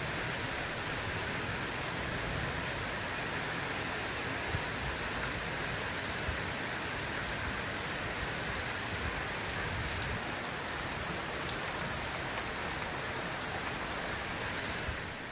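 Heavy rain pouring down steadily, an even, dense rush of noise.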